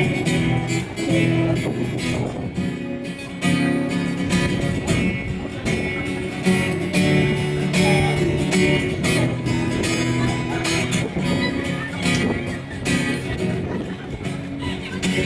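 Acoustic guitar strummed in a steady chord pattern.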